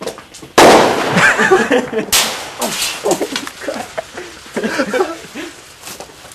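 Firework going off: a loud bang about half a second in, then a second sharp bang about two seconds in, with crackling noise trailing after.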